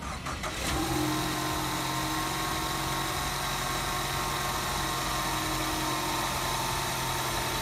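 2017 Ford Mustang EcoBoost's 2.3-litre turbocharged four-cylinder idling steadily, a smooth even hum with a faint high whine over it.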